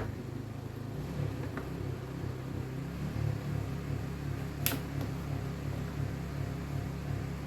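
Household electric fan motor running with a steady low hum that wavers in a regular beat. A few light clicks, with one sharp click a little past halfway.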